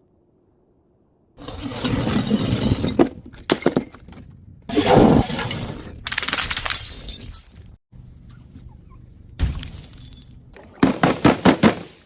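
Glass shattering and crunching in a series of crashes, starting about a second and a half in. Near the end comes a quick run of about six sharp cracks.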